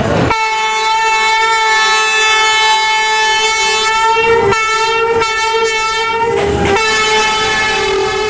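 Train horn sounding a long, steady blast as a train comes along the street-running railway, with brief dips about four and a half and five seconds in and a short break near six and a half seconds before it sounds again.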